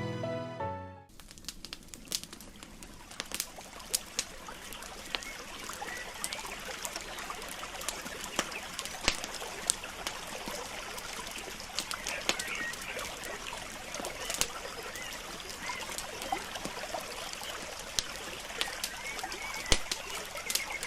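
Campfire crackling, with frequent sharp pops and snaps over a steady hiss, and faint short high chirps mixed in.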